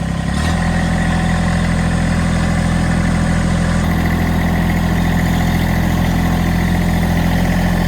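Massey Ferguson GC1723E garden tractor's three-cylinder diesel engine running steadily; its pitch steps up about half a second in, then holds.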